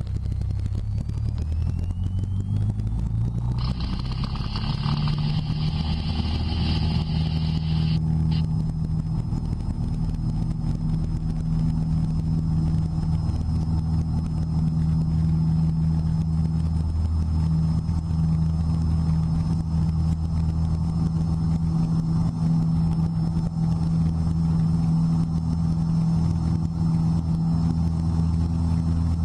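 Cessna 172's piston engine and propeller heard from inside the cockpit. They rise in pitch over the first few seconds, then hold a steady high-power drone. A high-pitched whine sounds from a few seconds in and cuts off suddenly about eight seconds in.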